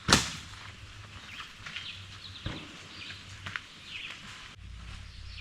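A sharp knock right at the start and a softer one about halfway through, with short bird chirps in the background.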